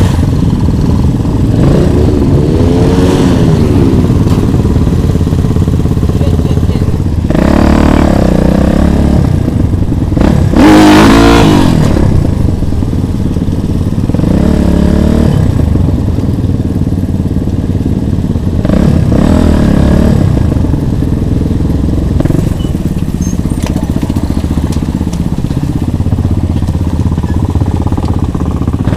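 Motorcycle engine running close by, revving up and falling back several times, with the loudest rev about eleven seconds in.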